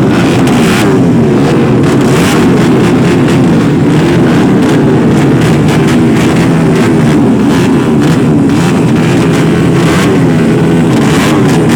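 Several 200cc racing motorcycle engines revving together, their pitches rising and falling over one another, very loud with a crackly top.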